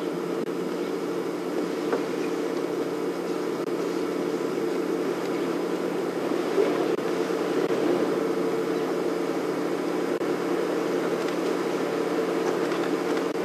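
A steady, even engine drone, as of a safari game-drive vehicle idling.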